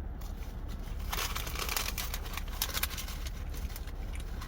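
Close-miked eating noises: crackly rustling and clicks, densest for about a second starting a second in, over a low steady hum.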